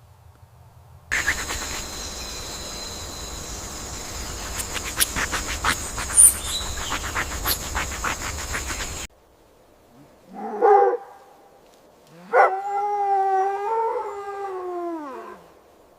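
A dog howling: a short call, then one long howl that holds its pitch and falls at the end. Before it comes a stretch of several seconds of hiss with scattered clicks.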